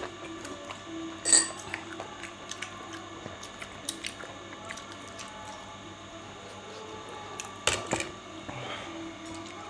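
A person chewing momos close to the microphone, with scattered light clicks and two sharper knocks, one about a second in and one near eight seconds.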